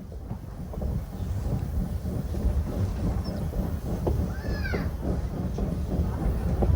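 Train rolling on the rails, heard from aboard the coach: a steady low rumble with many short knocks that grows louder over the first second or so. A brief high squeal rises and falls about four and a half seconds in.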